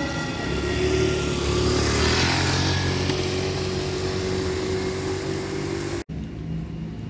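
Tram running past, its traction motors whining in steady tones that fall slightly in pitch over a low rumble of wheels on rail. The sound cuts off abruptly about six seconds in, leaving quieter street noise.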